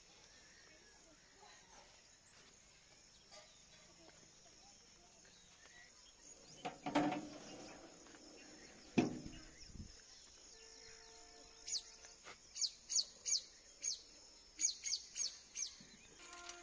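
A small bird calling faintly in quick runs of short, high chirps over the last five seconds. Two knocks come about seven and nine seconds in.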